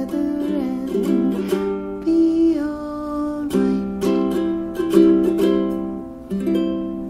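Ukulele strumming chords, ending on a final chord that rings and fades away near the end.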